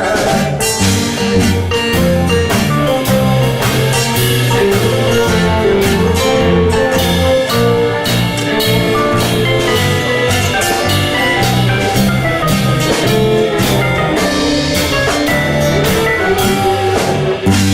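Live band playing an instrumental break between sung verses: a melody line over bass and drums with a steady beat.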